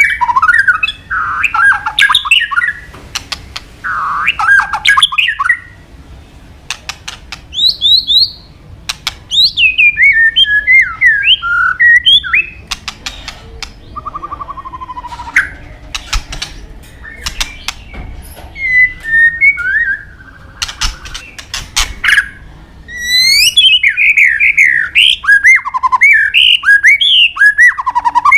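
White-rumped shama (murai batu) singing a long, varied song in bursts of rapid rising and falling whistled notes, broken by sharp clicks and short pauses between the phrases.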